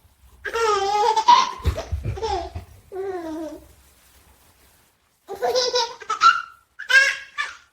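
A baby laughing in several bursts of high, bubbling giggles, with a dull low thump about a second and a half in.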